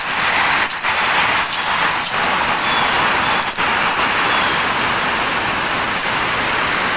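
Loud, steady, high buzzing chorus of cicadas, with a few faint ticks and rustles in the first few seconds.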